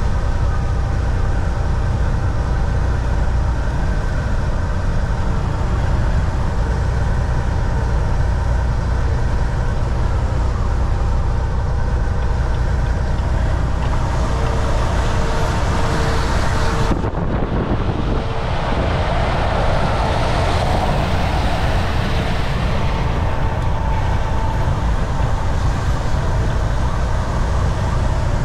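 Volvo VNL 760 semi truck cruising at highway speed, heard from the driver's seat: a steady low engine drone and road rumble, with faint steady whines. A little over halfway through the sound changes, and a rushing noise swells for several seconds, then fades.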